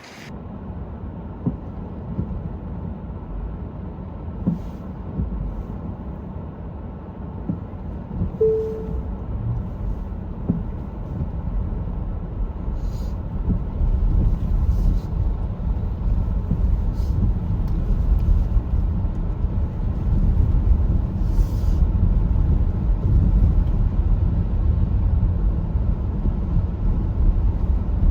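City street traffic: a steady low rumble of passing vehicles that grows louder over the second half, with a brief tone about eight seconds in and a few faint ticks.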